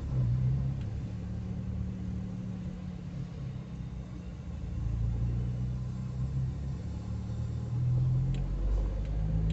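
Car engine and road noise heard from inside the cabin while driving slowly in traffic: a steady low hum that swells a little about halfway and again near the end.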